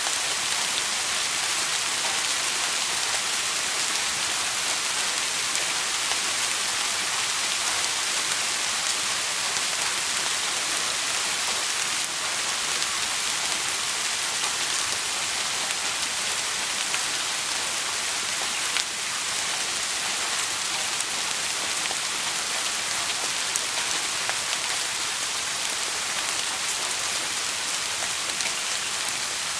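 Steady, even rain falling on a surface, with no thunder.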